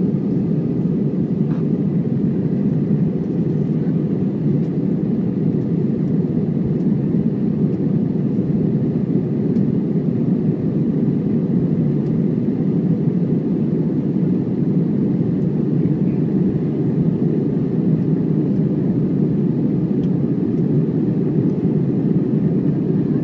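Airbus A320 cabin noise from the engines and the airflow: a steady, even low rumble.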